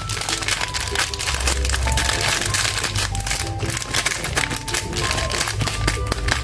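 Background music with a steady bass line and short melody notes, over a dense irregular crackling of paper or a candy wrapper being crinkled and unwrapped.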